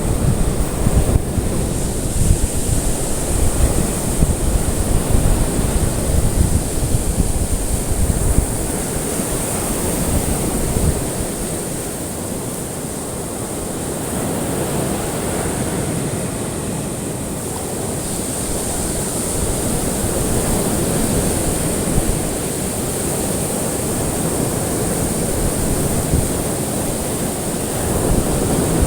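Ocean waves on a shore: a continuous rushing wash that slowly swells and eases, with a heavier low rumble for the first several seconds.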